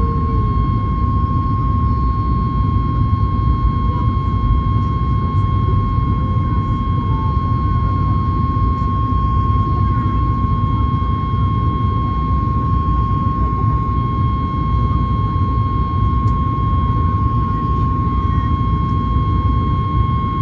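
Cabin noise of a Boeing 737 MAX 8 climbing after takeoff: a steady low rush of CFM LEAP-1B jet engines and airflow, with a steady high whine running through it.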